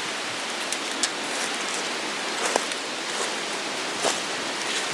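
Wind rushing through the trees in a steady hiss, with scattered small ticks and rustles.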